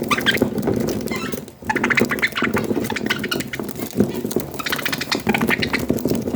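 Budgerigars chattering and warbling in quick, busy chirps, with a short break about one and a half seconds in.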